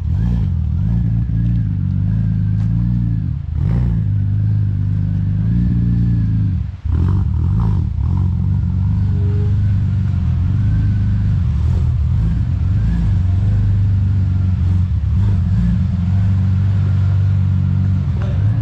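Car engine running loudly and steadily, with a brief drop in sound about seven seconds in before it pulls on again.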